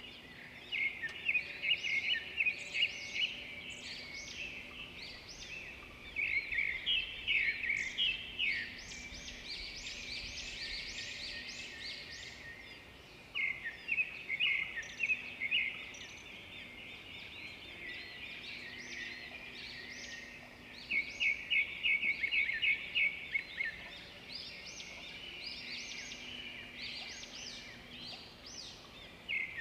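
Songbirds singing: four bouts of fast repeated notes, each lasting two or three seconds and coming about every six or seven seconds, with fainter chirping in between.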